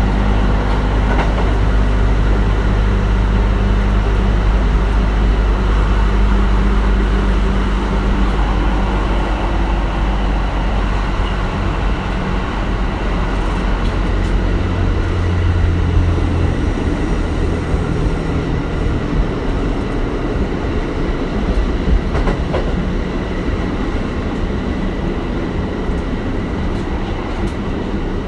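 Kintetsu 1420 series electric train with Mitsubishi GTO-VVVF traction equipment running on the line, heard from inside the car: a continuous heavy rumble of wheels on rail and traction motors, whose low tones shift a few times, with a few light clicks.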